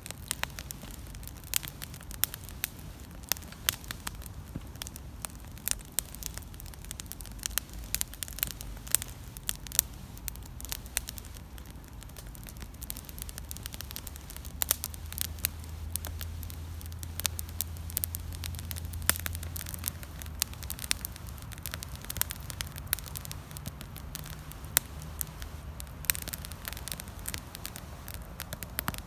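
Wood campfire burning, with dense, irregular crackles and sharp pops over a low steady hum.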